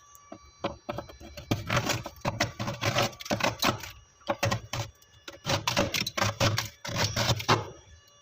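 Freezer frost ice crunching in quick, crackly runs of clicks, with short pauses between them.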